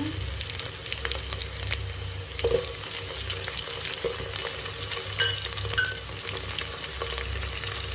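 Onions and whole spices frying in hot oil in a pot, sizzling steadily while a spoon stirs them, with scattered clicks and scrapes of the spoon against the pot and a couple of short squeaks about five seconds in.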